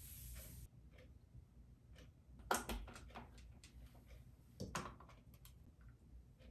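Scattered light clicks and taps of small hard objects being handled, the two loudest about two and a half and four and a half seconds in, after a soft hiss that cuts off near the start.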